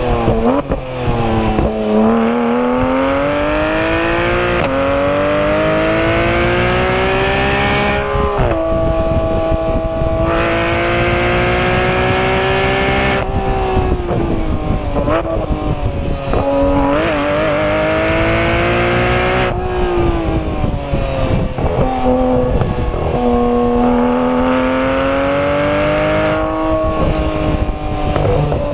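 Porsche 991 GT3 RS's naturally aspirated flat-six engine and exhaust under hard track driving. The engine pitch climbs steadily through the revs, then drops sharply several times as the car shifts gear and brakes, and climbs again.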